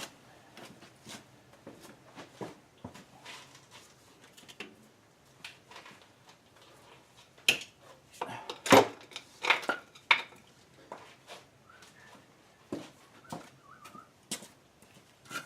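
Metal hand tools clinking and clattering as they are picked up and handled, with a cluster of louder knocks in the middle.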